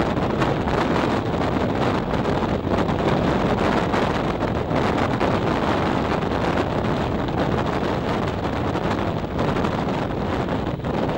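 Steady rush of wind on the microphone held at an open window of a moving regional train, over the train's running noise on the rails.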